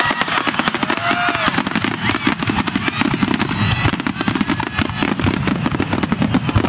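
Star mine fireworks barrage: a rapid, unbroken string of shell bursts and bangs, many each second, with no let-up.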